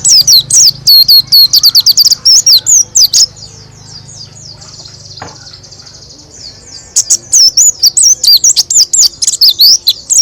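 White-eye (pleci) singing a rapid, loud run of high chirping notes. The run stops about three seconds in, leaving faint twittering for a few seconds, and starts again about seven seconds in.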